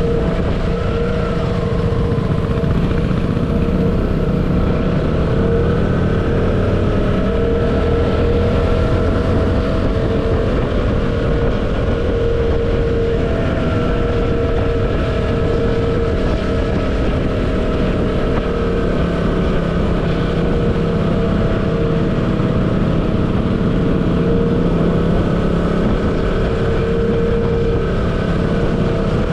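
Motorcycle engine running steadily while riding, its pitch drifting gently up and down, over a constant low rumble of wind and road noise.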